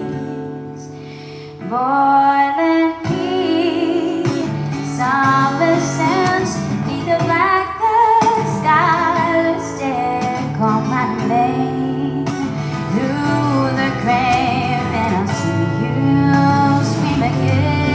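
A woman singing live over acoustic guitar, with wavering held notes. The guitar plays alone at first, and the voice comes in about two seconds in.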